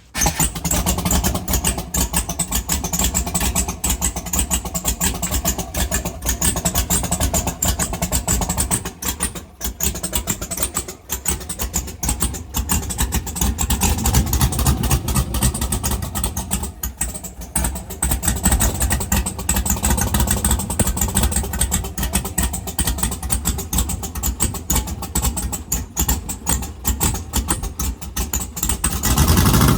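Twin-turbo GM LS V8 engine catching and running, one of its first runs after being swapped into a limousine. It comes in suddenly at the start and keeps running steadily, with a rising rev right at the end.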